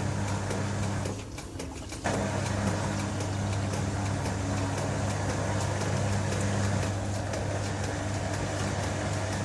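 LG TurboDrum WT-R852 washing machine running, its motor humming steadily under the noise of the drum churning the wet bedding. The drum pauses briefly about a second in and starts up again abruptly.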